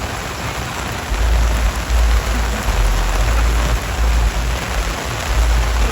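Steady heavy rain, a dense even hiss, with bouts of low rumble under it.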